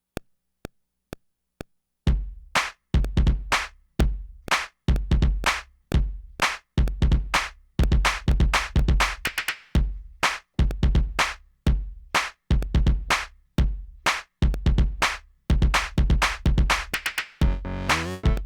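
MPC drum-machine beat: four count-in clicks about half a second apart, then a looped drum pattern with a heavy low kick and bass starting about two seconds in. Near the end, sustained pitched notes come in over the beat.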